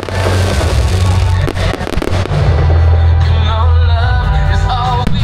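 Fireworks bursting in a string of sharp bangs, mostly in the first half, over loud music with a heavy bass. A melody comes through in the second half.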